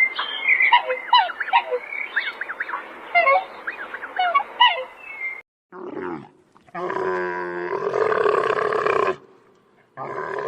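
Birds chirping in quick, sharply falling calls for about five seconds; then, after an abrupt cut, a large animal gives a loud, low, drawn-out call lasting about two seconds, and starts another just before the end.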